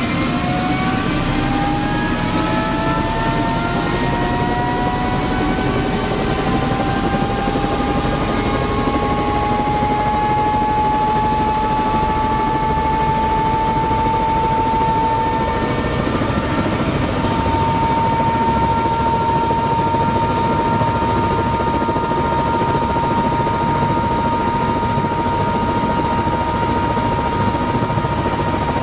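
Tour helicopter's turbine and rotor running loudly. A whine rises in pitch over the first dozen seconds or so, then holds steady over the constant engine and rotor noise.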